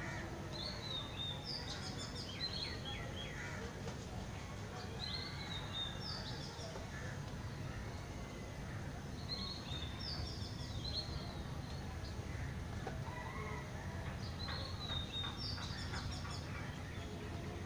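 A bird singing short phrases of quick high chirps, repeated about every four to five seconds, with fainter chirping between, over a steady low background rumble.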